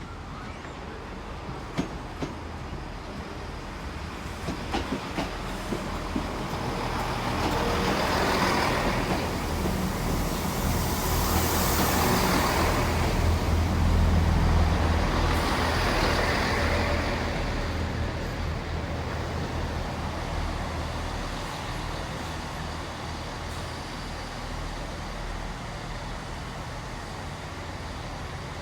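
A train moving slowly past: a deep engine rumble with rail and wheel noise that builds to its loudest about halfway through, then fades away. A few sharp clicks sound in the first few seconds.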